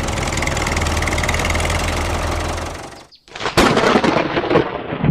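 A mini tractor's small engine runs steadily and fades out about three seconds in. After a short gap, a loud burst of irregular crackling knocks over a rumble starts.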